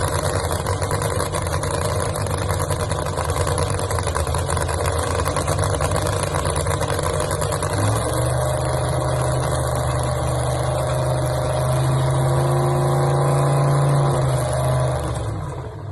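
A car engine running at a rough idle, revved up about halfway through and held at a steady higher pitch for several seconds, then dying away near the end.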